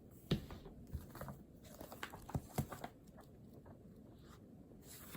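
Pen and paper being handled at a desk: a few short, sharp taps with soft rustling between them, the loudest about a third of a second in and two more close together about two and a half seconds in.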